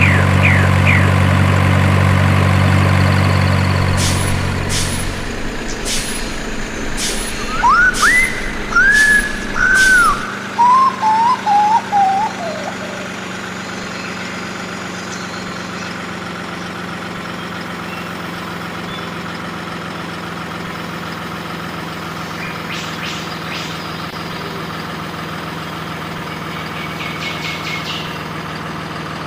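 A truck engine runs loudly, then drops to a lower level about five seconds in. Seven short sharp sounds follow about a second apart, with a run of rising-and-falling whistling chirps over them, and then a steady low engine hum goes on.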